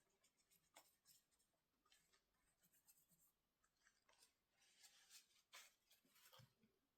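Faint scratching and scattered light clicks of small hand tools and parts being handled, on a laptop opened up for a thermal paste replacement.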